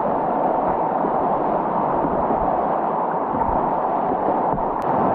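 Steady rushing of whitewater rapids on a river, an even wash of water noise.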